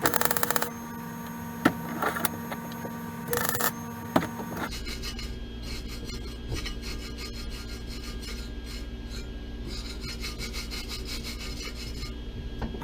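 MIG welding of aluminum with a spool gun on a 110-volt Lincoln Weld-Pak 140. First come short bursts of arc crackle and a few clicks, then from about five seconds in a continuous crackling bead over a steady low hum.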